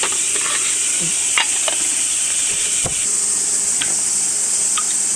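A dense, steady chorus of cicadas shrilling, with a few light clicks and knocks from cooking gear. A low steady hum joins about three seconds in.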